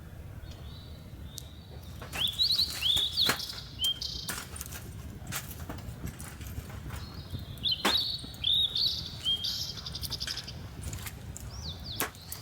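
A bird calling in two runs of short, down-curving notes, about two seconds in and again about eight seconds in, with scattered sharp clicks between them.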